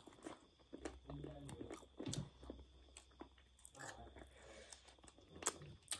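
Faint chewing, biting and lip-smacking of people eating chicken with their fingers, with scattered small mouth clicks and one sharper click about five and a half seconds in.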